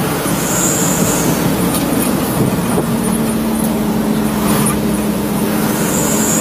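Trucks driving on a road: steady engine and tyre noise, with a brief high whine about half a second in and a steady engine hum that comes in about three seconds in.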